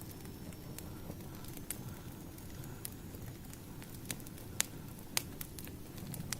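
Wood fire burning: a steady low rumble of flame with irregular sharp crackles and pops of firewood, the loudest pops a little past halfway through.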